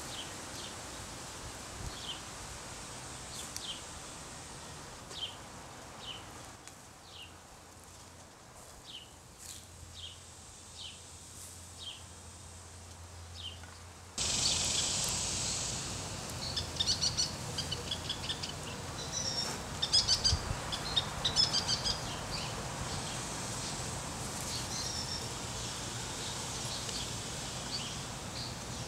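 Outdoor ambience with a bird repeating a short high chirp about once a second. About halfway in, the background suddenly gets louder, with bursts of rapid high chirping.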